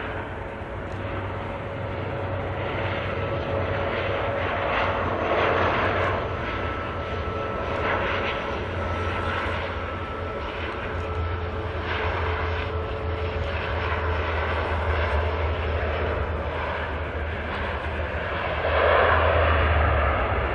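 Turboprop airliner engines and propellers running, a steady low drone with a thin steady whine above it, growing louder near the end.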